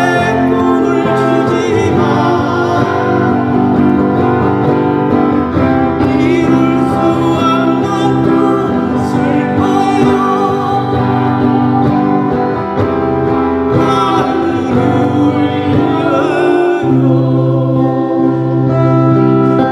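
A song sung with guitar accompaniment, the voice holding long notes with vibrato.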